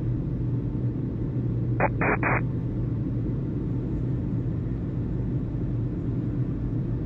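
Airband radio channel open between transmissions: a steady low rumble and hum, broken about two seconds in by three short bursts of radio static.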